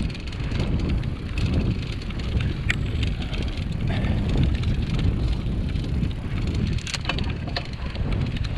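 Mountain bike being ridden over rough ground, with wind buffeting the microphone and a steady low rumble. Scattered sharp clicks and rattles come from the bike.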